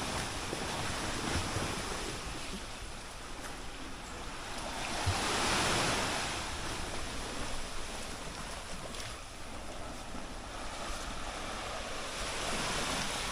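Sea waves breaking on a rocky shore, a steady wash of surf that swells to one louder break about halfway through, with wind rumbling on the microphone.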